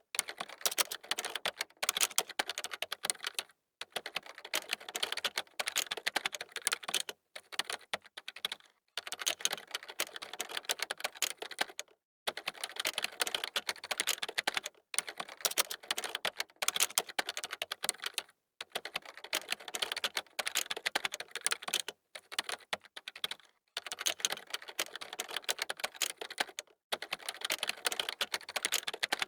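Fast typing on a computer keyboard: dense runs of key clicks, stopping for brief pauses every couple of seconds.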